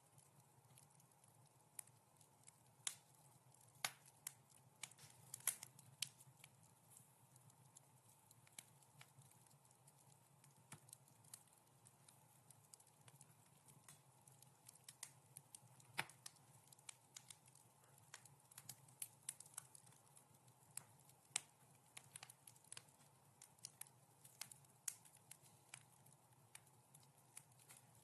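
Wood fire crackling softly in a fireplace: irregular sharp pops and snaps, sometimes several in quick succession, over a faint steady low hum.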